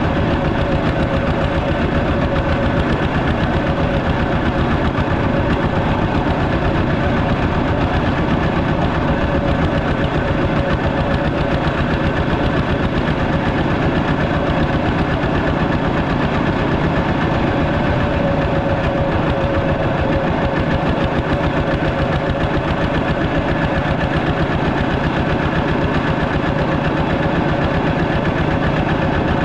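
Walking tractor engine running steadily, with a fast, even chugging of firing pulses and no change in speed.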